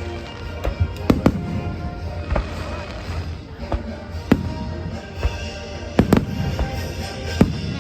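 Fireworks going off in a string of sharp, irregularly spaced bangs, the loudest about six seconds in, with music playing underneath.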